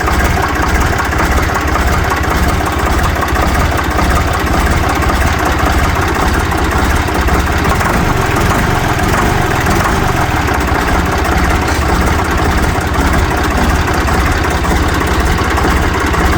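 Ditch Witch trencher-backhoe's air-cooled three-cylinder Deutz diesel idling steadily soon after a cold start.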